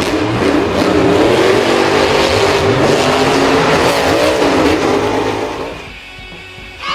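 Motor vehicle engine revving up and down hard amid loud racing noise, fading out about six seconds in.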